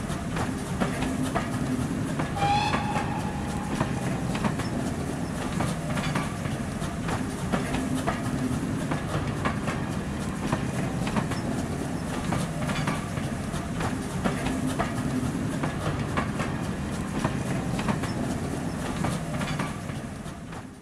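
Railway carriages rolling past close by: a steady rumble with the wheels clicking over rail joints, and a brief high-pitched tone about two and a half seconds in.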